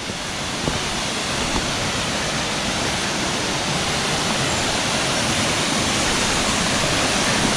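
Thomasson Foss waterfall pouring into its plunge pool: a steady, loud rush of falling water, growing slightly louder as the microphone moves closer.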